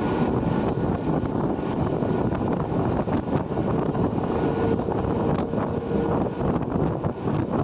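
Steady rumble of a train passing close by, with scattered wheel clicks and wind buffeting the microphone.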